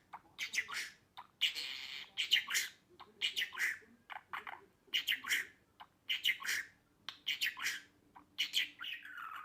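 Budgerigar chattering: short bursts of squawks, clicks and chirps that come about once a second.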